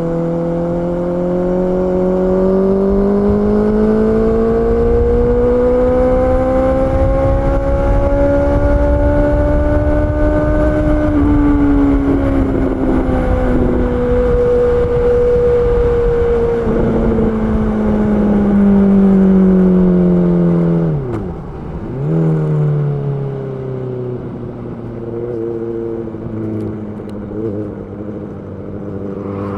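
Honda CB650R's inline-four engine pulling up through the revs for about ten seconds, then dropping back and easing off. Just past twenty seconds the revs dip sharply and pick straight up again before settling lower, with wind rush underneath.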